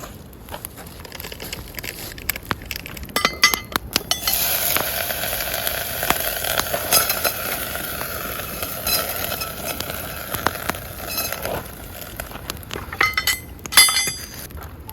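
Camp cookware clinking a few times, then a steady hiss for about seven seconds, then more clinks near the end.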